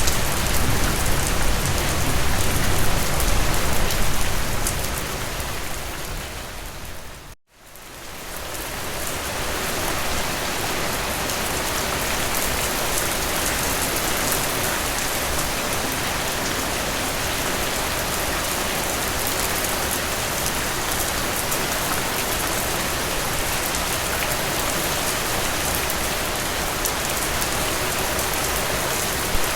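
Steady rain, an even hiss of falling drops. About seven seconds in, it fades out to a moment of silence and fades back in, with less low rumble after the break.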